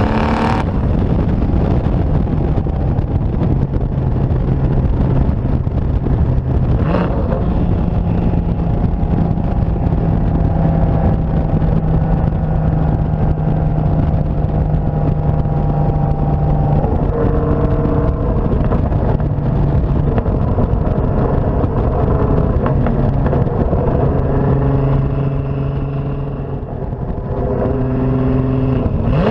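Turbocharged 3.2 L VR6 engine of a 2004 VW R32 running through a catless downpipe and aftermarket catback exhaust, the note held steady for long stretches. The pitch changes in steps about halfway through and again near the end.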